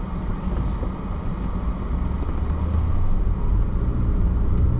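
Road noise of a moving car heard from inside: a steady low rumble of tyres and engine that grows a little louder about two seconds in.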